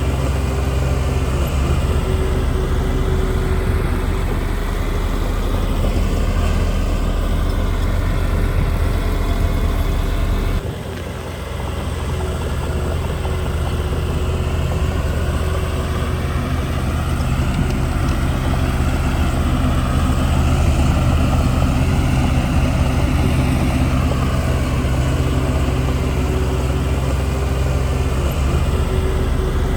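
Heavy diesel engine of earthmoving machinery, a bulldozer working dirt, running steadily under load. The sound drops abruptly about ten seconds in and then builds back up.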